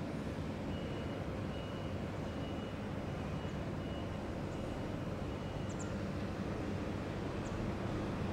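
Low steady rumble of a freight train approaching in the distance, with a faint high beep repeating a little more than once a second.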